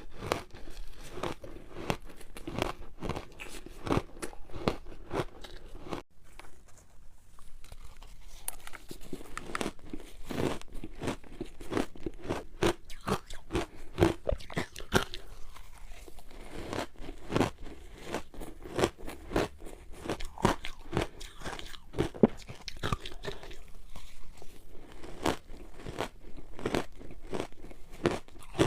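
Close-miked crunching and chewing of hard frozen ice balls: rapid, irregular sharp cracks as the ice is bitten and broken up between the teeth.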